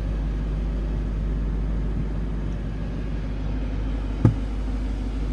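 Car engine idling with a steady low hum, and a single short knock about four seconds in.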